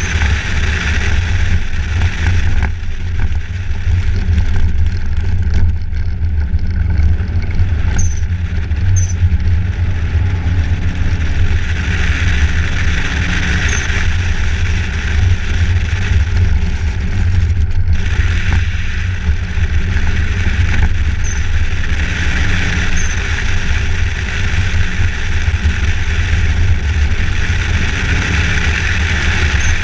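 A vehicle driving: a steady, loud low rumble with a hiss over it that swells twice.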